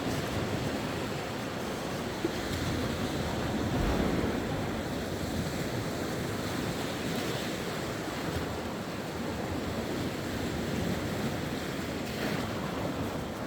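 Sea waves washing onto the shore in a steady surf, swelling slightly about four seconds in.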